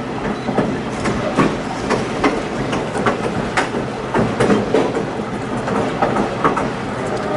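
Passenger train wheels rolling over rail joints: a steady rumble with irregular clacks and knocks from the wheels and the rattling car.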